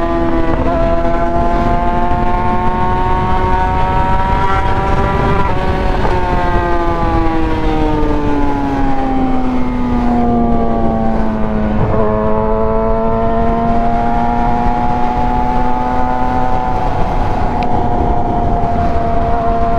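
Yamaha R6 inline-four engine running under way: its pitch climbs gently, shifts about five seconds in, then falls slowly for several seconds as the bike slows, changes abruptly near the middle, and holds fairly steady afterwards.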